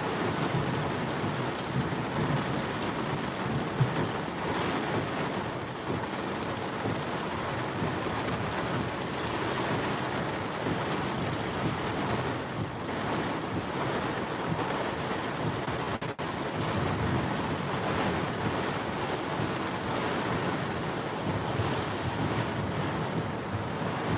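Heavy monsoon rain and strong wind, a steady rushing wash of noise with no let-up.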